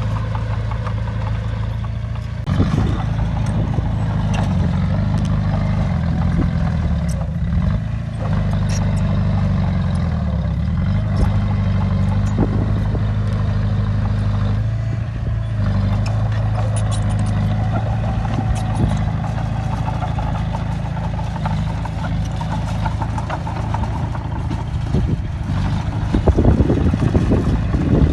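Bulldozer's diesel engine running steadily, its pitch dipping and recovering a few times as it works, with scattered knocks and a louder burst of clattering near the end.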